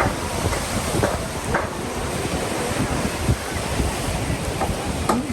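Wind rumbling on the microphone over choppy lake water, which laps with small splashes now and then.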